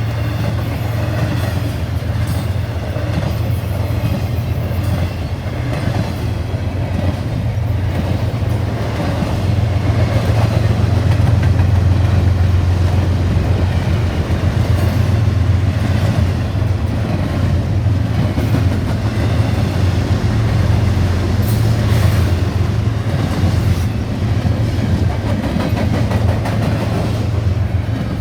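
A train rolling past, its cars' wheels clattering over the track with a steady low rumble, a little louder about ten to fourteen seconds in.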